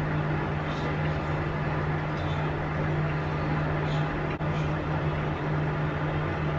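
Soft bread being chewed, with a few faint wet mouth sounds, over a steady low hum and background noise that is the loudest thing heard.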